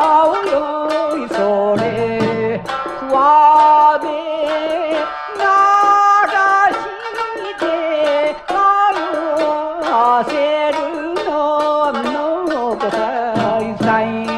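Japanese min'yō folk-song recording from a 1968 EP: a sliding, ornamented melody over plucked strings and percussion.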